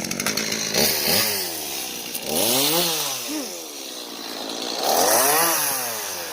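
Chainsaw engine catching suddenly, then revved up and let back down several times, its pitch climbing and falling in arches.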